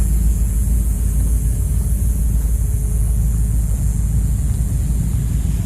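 Steady low vehicle rumble with a constant high hiss above it.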